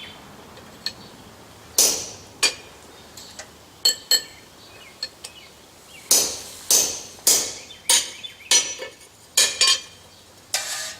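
Hand hammer striking a small hole punch driven through a hot steel bar on an anvil, with a dozen or so sharp blows and a metallic ring. The blows are spaced out at first and come steadily about every half second from about six seconds in, as the punch works through the steel.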